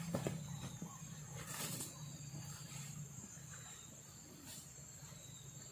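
Night-time tropical forest ambience: a steady, high insect trill with a low pulsing drone beneath it that fades after the first couple of seconds, and scattered clicks and rustles.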